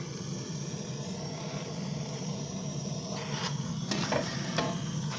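Freshly lit wood fire crackling in a fireplace firebox, with a handful of sharp pops in the second half, over a steady low hum.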